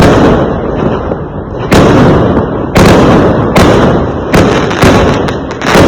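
Fireworks going off: a run of about seven loud, sharp bangs, roughly one a second, each trailing off in a rumble that runs into the next.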